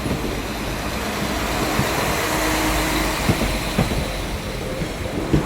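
A train moving through the station at speed: a steady rumble of wheels and running gear, with a few short clunks over rail joints in the second half.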